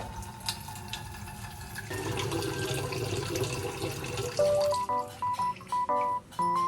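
Water running from a tap, a steady rush. Then background music comes in about four seconds in, a light melody of short notes.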